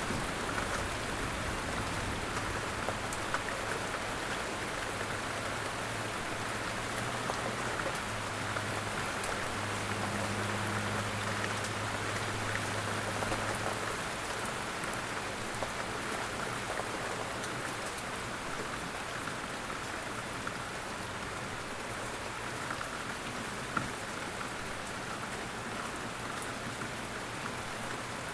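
Steady rain falling, a dense even patter with scattered drop ticks. A low rumble sits under it in the first half and fades about halfway through.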